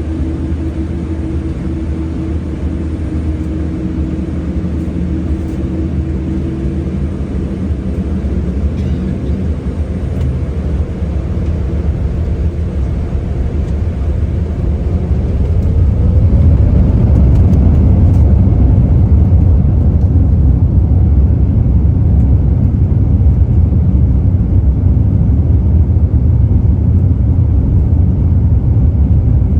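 Boeing 787-9 jet engines (Rolls-Royce Trent 1000) spooling up for takeoff. A steady hum turns into a whine rising in pitch about halfway through, then a loud, steady low rumble of the takeoff roll takes over.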